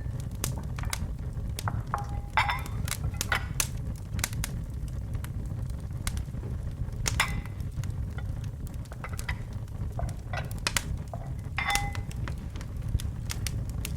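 Wood fire burning in a fireplace: a steady low rumble of flames with scattered crackles and a few sharper pops, the loudest about two and a half, seven and twelve seconds in.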